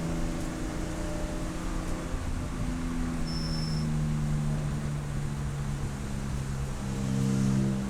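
Race car engine running at a fairly steady pitch, dipping slightly a few seconds in and rising again near the end. A short high beep sounds about three seconds in.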